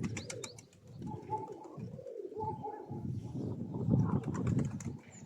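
Domestic pigeons cooing, low and throaty, with a quick run of sharp clicks in the first second.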